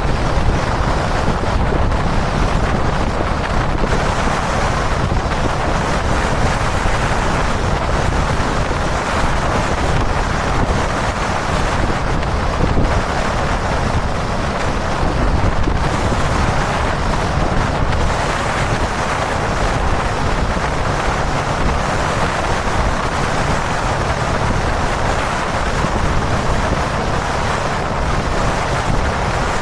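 Wind rushing over the camera microphone on a motorcycle cruising at expressway speed, mixed with the steady drone of the Kawasaki Dominar 400's single-cylinder engine and road noise. It holds steady, with only small swells in the wind.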